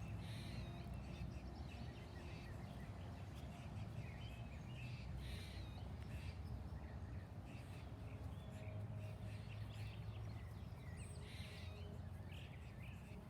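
Birds chirping now and then over a low, steady background rumble.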